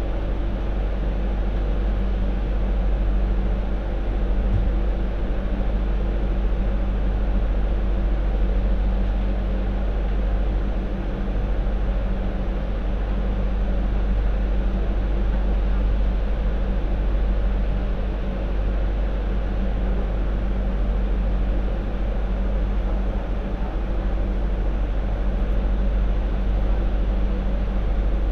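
MTR Light Rail Phase IV light rail vehicle running, heard from inside the car: a steady low rumble of wheels on track with a constant hum from the car's equipment.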